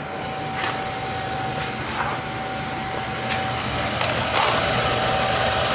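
Beckett oil burner running with a steady rushing noise and a thin, steady high-pitched whine over it, which the technician suspects is air in the oil pump.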